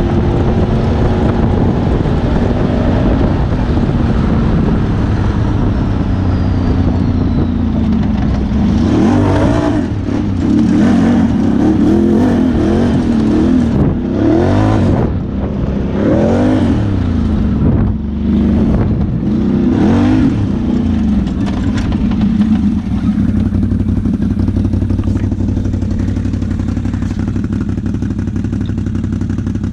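ATV engine running under load, its revs rising and falling over and over for several seconds through the middle, then settling to a steady drone near the end.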